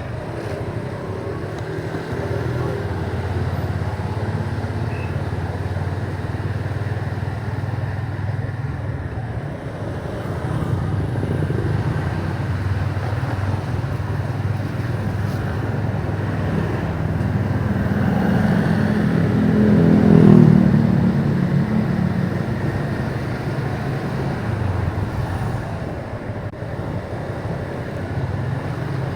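Motorcycle running on the road, its engine and road noise steady, swelling to its loudest about two-thirds of the way through and then easing back.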